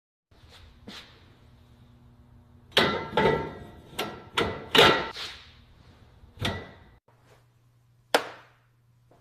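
Metal tools and parts clanking: about eight sharp knocks that ring briefly, most of them bunched in the middle and one more near the end, over a low steady hum.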